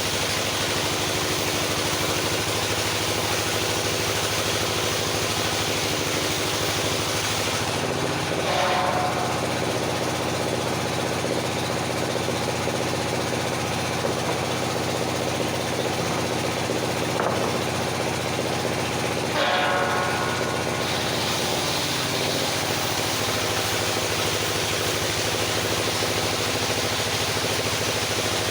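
Engine-driven circular sawmill running steadily. For about thirteen seconds in the middle its sound changes, opening and closing with a brief high whine.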